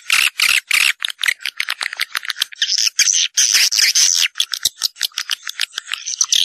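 A dense flock chorus of swiftlets: rapid, continuous twittering and chittering calls, high-pitched and packed closely together. It is a swiftlet calling track, the kind played to draw swiftlets into a nesting house.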